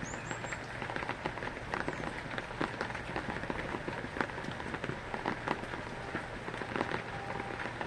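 Heavy rain falling and pattering on surfaces, with many separate drops clicking through a steady hiss. A brief high chirp, like a small bird's, right at the start.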